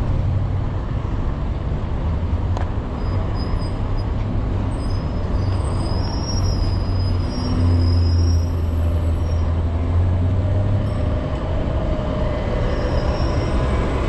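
City street traffic noise: a steady low engine rumble that swells for a few seconds in the middle, with faint high-pitched squeals now and then.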